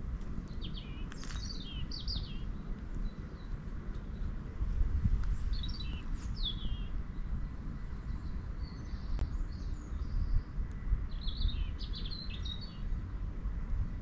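A small bird singing three short bursts of quick, high chirping notes, a few seconds apart, over a steady low rumble of outdoor noise.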